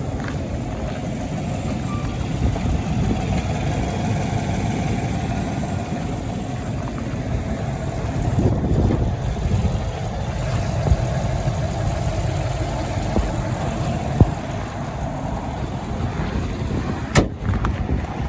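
2014 Chevrolet Silverado 1500 pickup's engine idling steadily.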